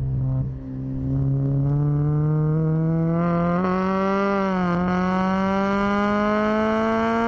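Honda Civic EG6's VTEC four-cylinder engine accelerating hard: after a brief dip just after the start, the pitch climbs steadily toward high revs. About three seconds in the tone turns harsher and fuller, and a little later the revs sag for a moment before climbing again.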